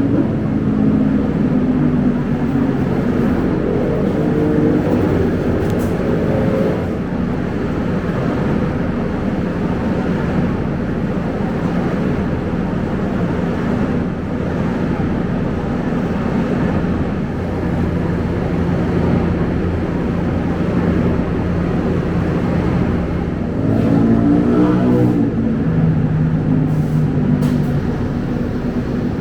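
Scania K270UB bus heard from inside the cabin while moving: the rear-mounted diesel engine runs over a steady road rumble. Its pitch rises a few seconds in and again near the end.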